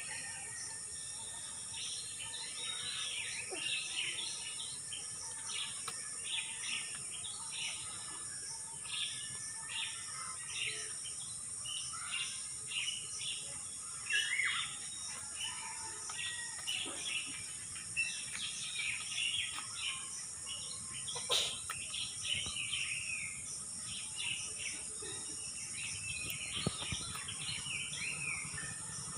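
Many small birds chirping and calling in short, rapid notes, over a steady high hiss. There is one sharp click about two-thirds through.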